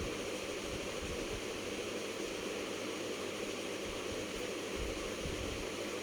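Whole chicken joints frying slowly in oil in a pan on a low flame, a steady, even sizzle.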